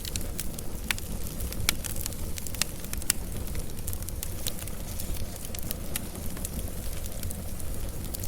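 Wood fire burning with a low steady rumble and sharp, irregular crackles and pops, a few louder pops in the first half.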